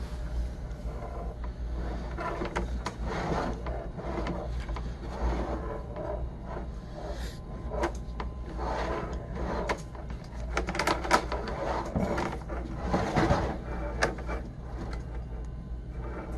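Sewer inspection camera's push cable being fed and worked through the line: irregular scraping, rattling and clicks over a steady low hum.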